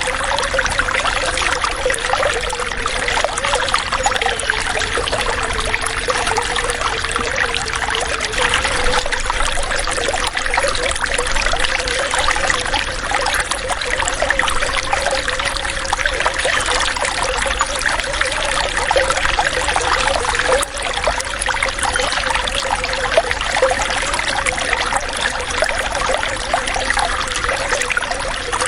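Water running and trickling steadily, a continuous bubbling flow with a faint wavering tone in it.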